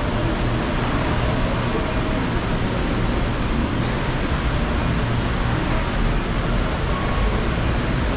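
Steady, even rush of rain noise, with a low rumble underneath.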